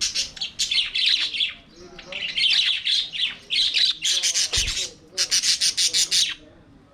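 A flock of budgerigars chattering and warbling in a dense, busy stream of chirps. Near the end comes a fast, even run of harsh squawking notes, and there is a brief low bump partway through.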